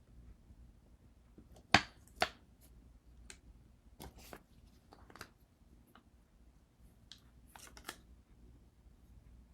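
Two sharp knocks about half a second apart, then scattered lighter clicks and rustles: small craft tools and foiled glass pieces being handled and set down on a work surface.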